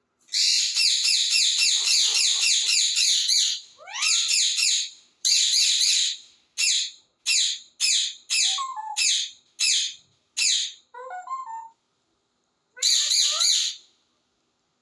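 Pet parrot calling loudly: a long run of rapid, harsh chattering, then a string of short, sharp calls about twice a second, and another brief burst of chatter near the end.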